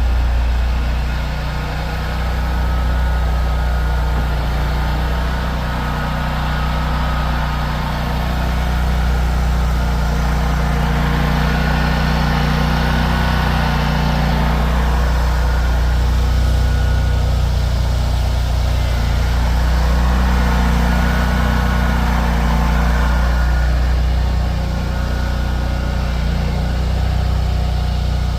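A vehicle engine running steadily with a deep, even hum. Faint higher tones come and go around the middle.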